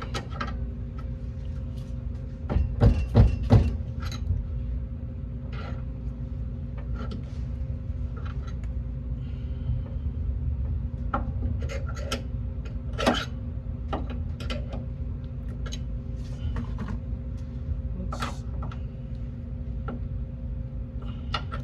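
Scattered clinks and knocks of metal parts being worked by hand as a rear shock absorber is coaxed into its mount, with a cluster of louder knocks about three seconds in. A steady low hum runs underneath.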